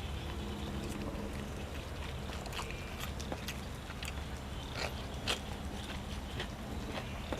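Close-up eating sounds: chewing, with scattered short crisp crunches and clicks over a steady low hum.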